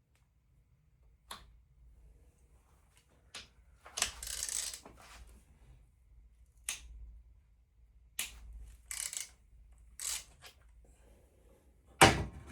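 Hand tools and parts clicking and knocking against a VW T5 engine during a repair, with a few short scraping rustles in between; the loudest knock comes near the end.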